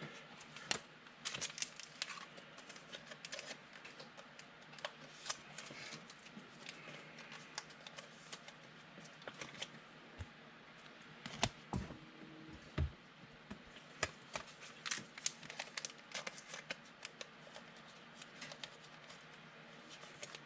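Faint, irregular light clicks, taps and rustles of trading cards and their packs being handled, with a few louder knocks about halfway through.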